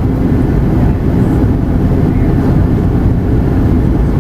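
Steady cabin rumble of a Boeing 737-800 in flight, with its CFM56 engines and the airflow heard from inside the cabin as a loud, even low roar and a faint steady hum.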